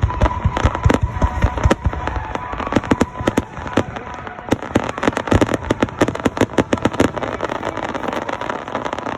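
Starmine fireworks display: a rapid, irregular barrage of shell bursts and crackling bangs, several a second and densest around the middle.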